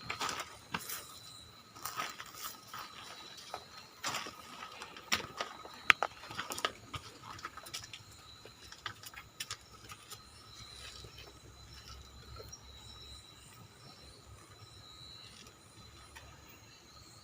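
Irregular crunching and clicking footsteps on debris, with one sharp click about 6 seconds in, thinning out after about ten seconds. Two faint steady high tones run underneath.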